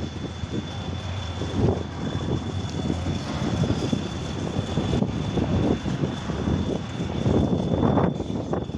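Trial truck's diesel engine running hard under load, its level rising and falling unevenly, with a thin steady high whine above it.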